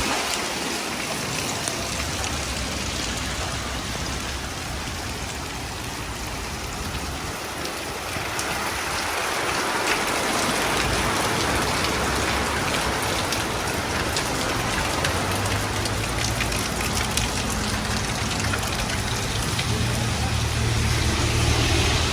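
Heavy rain falling and pattering on surfaces, steady throughout and heavier from about halfway, with a low rumble underneath in the second half.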